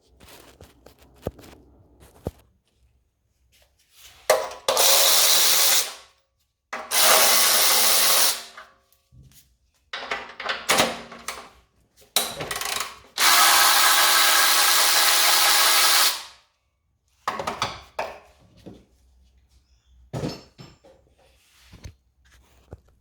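Starter motor cranking a Toyota 2AZ-FE four-cylinder engine with its spark plugs out, in three steady bursts, the last one about three seconds long, with shorter handling noises between. The engine spins without firing, pushing water out of the number three cylinder, a sign of a failed head gasket.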